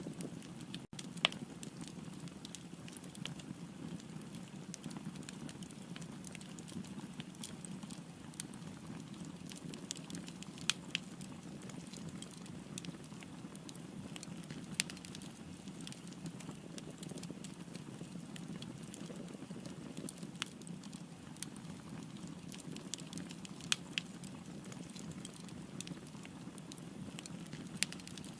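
Wood fire burning: a steady low rush of flames with scattered sharp crackles and pops, and a louder pop every few seconds.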